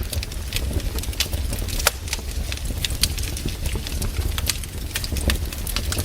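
Wood fire crackling, with irregular sharp snaps and pops over a low rumble.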